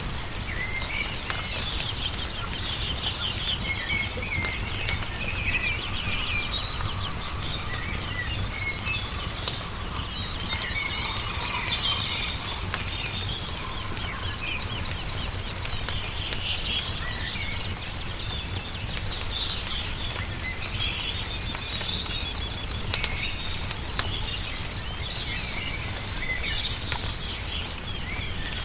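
Many small birds chirping and twittering in overlapping calls, with scattered sharp pops of a crackling wood fire over a steady low rumble.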